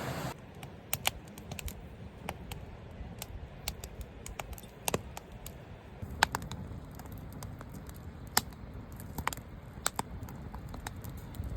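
Wood campfire crackling: irregular sharp pops and snaps over a low rumble, with a couple of louder pops about six and eight seconds in.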